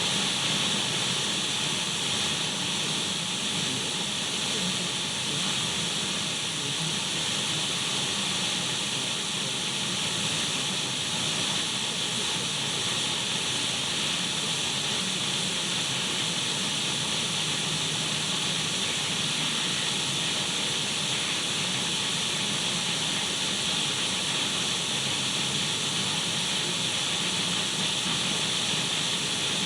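Radio static: the steady hiss of an untuned radio, even and unchanging, brightest in the upper range, with a few faint steady high tones running through it.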